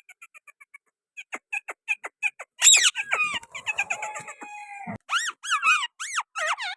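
A pair of parrots calling: a quick run of chirps, a loud squawk about two and a half seconds in with chatter and a held note, then a string of repeated rising-and-falling screeches near the end.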